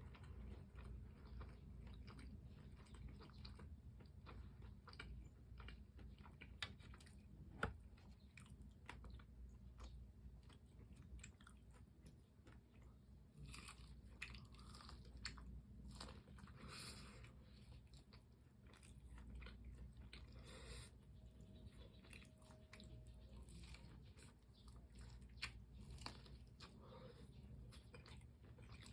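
Faint close-miked chewing and crunching of crispy fried chicken: scattered bites and crackles, with a busier spell of crunching about halfway through.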